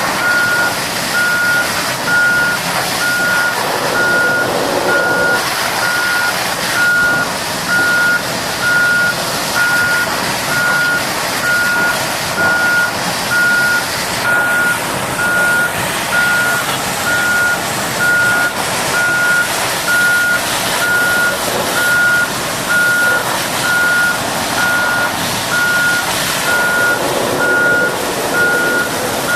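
Heavy-equipment reversing alarm beeping in an even on-off rhythm, one steady pitch, over a constant noisy hiss and machine rumble.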